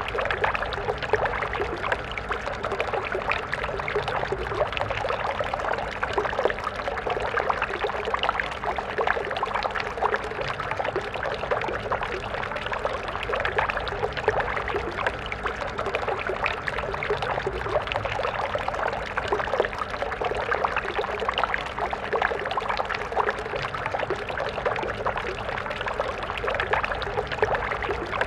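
Small stream flowing steadily: water splashing and trickling over stones, a continuous bright babble with many fine splashes and no breaks.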